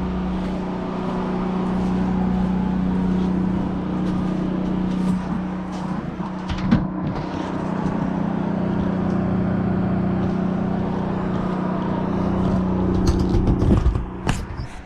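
Generator engine running steadily with a constant hum, with a few brief knocks partway through and near the end.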